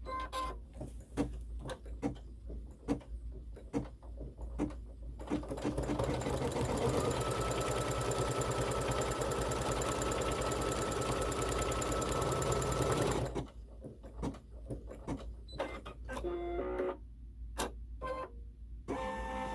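Embroidery machine stitching a seam line, running steadily for about eight seconds in the middle, with scattered short clicks before it starts and after it stops.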